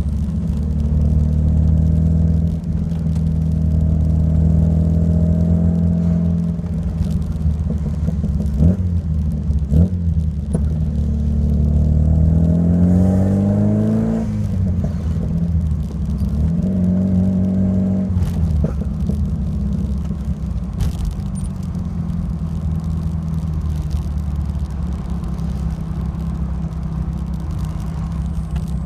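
Alfa Romeo Alfasud Sprint QV's 1.5-litre flat-four boxer engine with a stainless steel exhaust, idling. It is blipped briefly twice around nine and ten seconds in, revved up slowly from about twelve seconds and let drop back near fourteen, held a little higher for a couple of seconds around sixteen to eighteen, then settles back to a steady idle.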